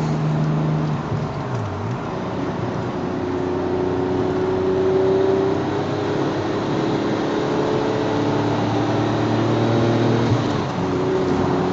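A car driving at speed: steady engine hum with tyre and road noise. The engine pitch dips and recovers about a second and a half in, then climbs slowly and holds steady.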